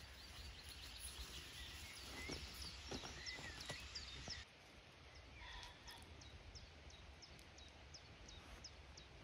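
Faint outdoor ambience with small birds singing: repeated short, high chirps, with a few soft clicks between about two and four seconds in. The background hiss drops away abruptly about four and a half seconds in, and the chirping carries on.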